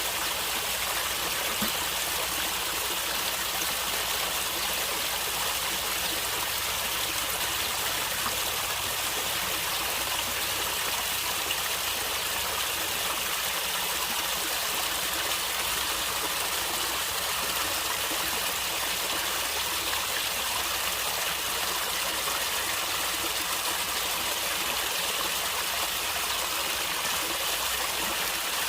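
A natural stream of water flowing and gurgling steadily, an even rushing hiss with no breaks or changes.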